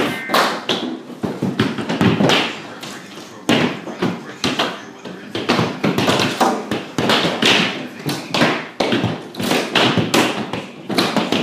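Tennis-ball-sized hailstones hitting a house: a dense, irregular barrage of loud knocks and thuds, several a second.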